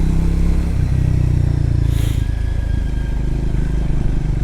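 Triumph Scrambler motorcycle engine running under way on a wet gravel road. The engine note swells about a second in and eases back off a little after two seconds, with a brief hiss in between.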